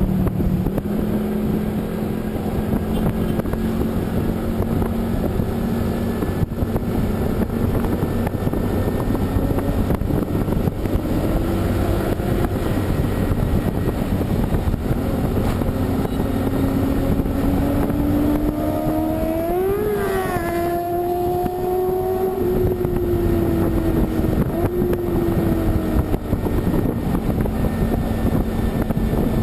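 A vehicle running steadily at speed on a highway, its engine drone mixed with road and wind noise. About two-thirds of the way in, an engine note rises sharply, holds, then slides back down.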